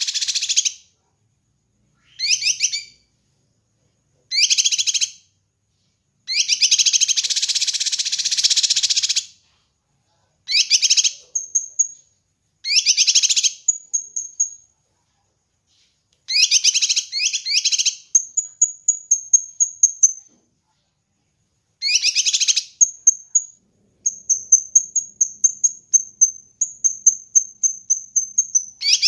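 Kinoi bird singing on a song-training recording: short bursts of fast, buzzy trilling separated by pauses, with one longer burst about six seconds in. In the second half a thin, high twitter of quick repeated notes runs between the bursts.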